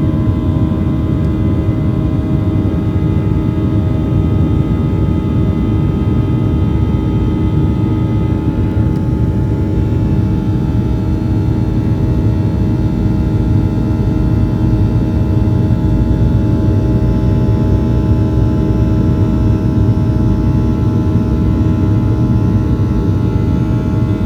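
Airliner cabin noise: the jet engines and airflow make a steady low rush with a constant hum of several steady tones on top, unchanging throughout.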